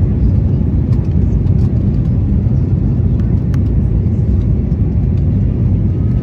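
Steady, loud, deep rumble inside the cabin of an Airbus A321neo in motion, the engines and rushing air heard from a window seat, with a few faint clicks.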